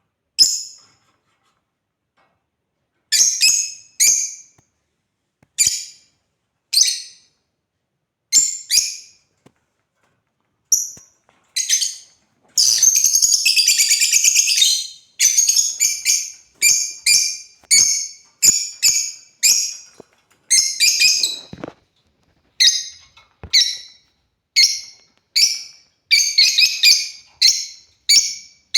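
African lovebirds calling with sharp, high-pitched chirps. At first the chirps come singly a second or more apart, about halfway through there is a couple of seconds of continuous chattering, and after that the calls come in quick succession.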